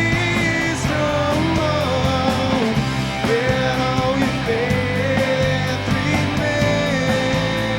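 Rock band playing an instrumental passage: electric guitar carrying a long, bending melody line over bass and a steady drum beat with regular cymbal strokes.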